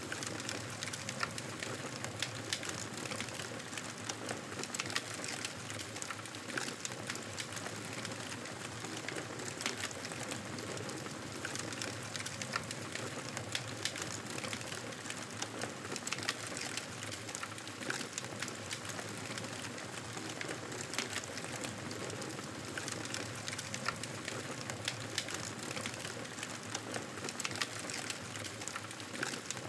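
Campfire burning with a steady hiss and frequent sharp crackles and pops of burning wood.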